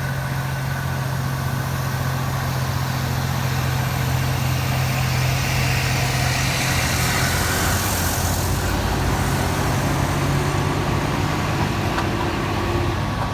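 Heavy diesel truck engine running under load on a climb, a steady low drone whose pitch drops a little about halfway through, with a hiss that swells and fades around the middle.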